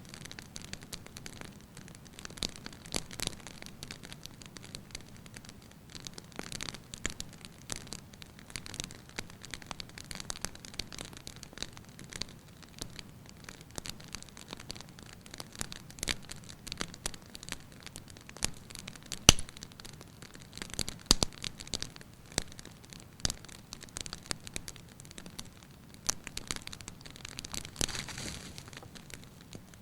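Firewood burning in a fireplace, crackling lightly with irregular sharp pops over a soft hiss; the loudest pop comes about two-thirds of the way through.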